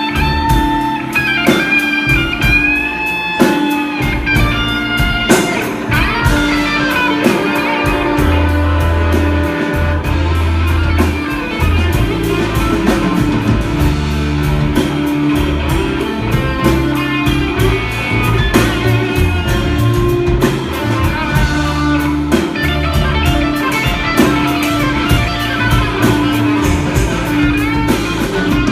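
A band playing an instrumental passage: a guitar melody over bass and drums, with a steady beat.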